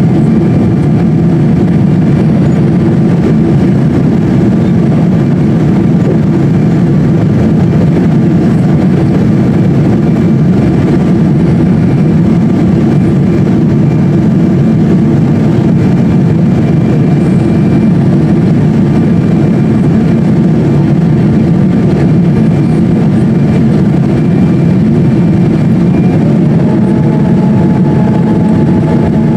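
Steady, loud roar of a Boeing 777-200's cabin noise in motion, from its jet engines and airflow, with a faint steady whine above it. Near the end a new higher tone rises and then holds.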